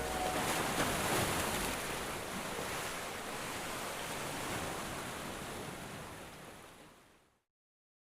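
Ocean-surf sound effect at the close of a pop song, an even wash of noise that fades out about seven seconds in.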